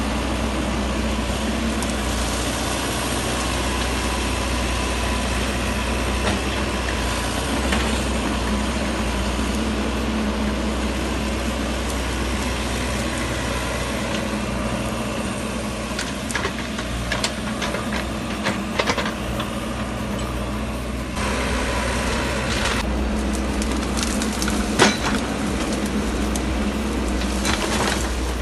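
Wacker Neuson mini excavator's diesel engine running steadily, with scattered clicks and knocks in the second half and one sharp knock near the end.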